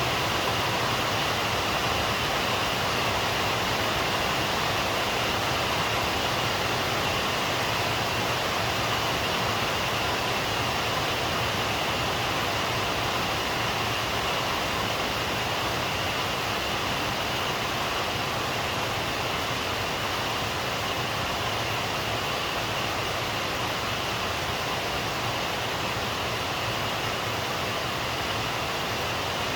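Steady rain falling, an even hiss with no breaks or thunder.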